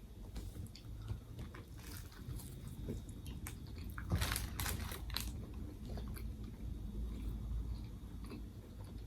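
A person chewing and crunching a tofu banh mi sandwich, with a cluster of louder crunchy bites about four to five seconds in.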